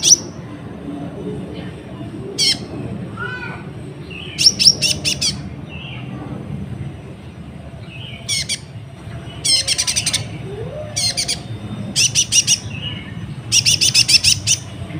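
Kolibri ninja sunbird singing in quick, high, sharp trilled bursts, each about half a second to a second long, repeated every second or two. A steady low hum runs underneath.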